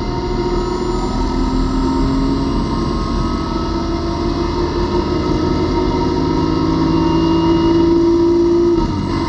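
BMW E36 M3 race car's straight-six engine under hard acceleration, heard on board: its pitch climbs slowly and steadily through the gear for about nine seconds, then drops sharply near the end.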